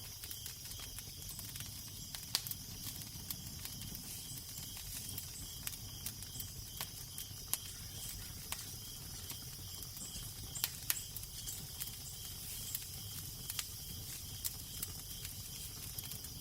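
Wood fire crackling, with sharp irregular pops and snaps over a steady low rumble and soft hiss.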